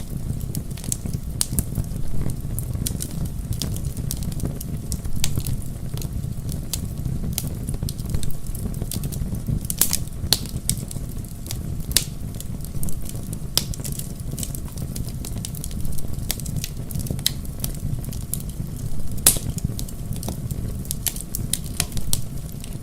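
Bonfire logs burning and crackling, with frequent sharp, irregular pops over a steady low rumble.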